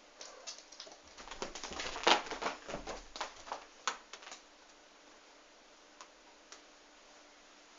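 A rapid, irregular flurry of light taps and clatter with a few soft thumps, loudest about two seconds in, then two single ticks: a cat scrambling and pouncing after a feather wand toy.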